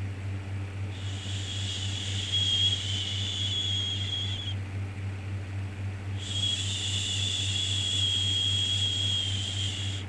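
Long, steady 'shhh' shushing hiss for lulling a baby, two shushes of about three and a half seconds each with a pause of about a second and a half between them, over a constant low hum.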